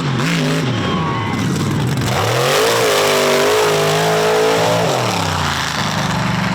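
Mega truck engine revving: the pitch climbs about two seconds in, holds high for a few seconds, then drops back down near the end.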